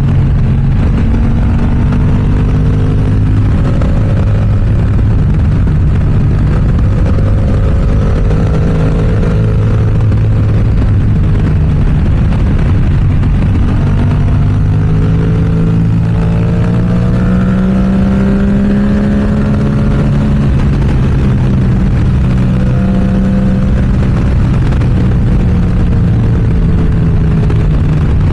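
Yamaha R7 parallel-twin sport bike with an M4 aftermarket exhaust being ridden, its exhaust note rising and falling with the throttle over steady wind noise.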